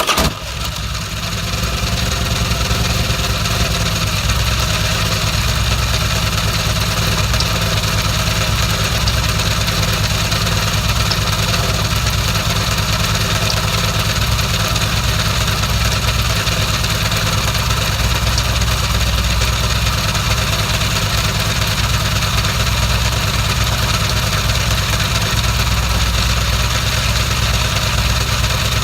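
2009 Harley-Davidson FLHX V-twin catching right at the start, then idling steadily. Now and then a faint sharp snap comes from the primary case. The cause is unknown: the owner doubts it is a loose primary chain hitting the case and suspects the clutch side.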